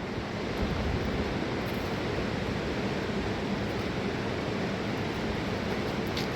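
Steady rushing of a fast mountain river: a constant, even wash of water noise.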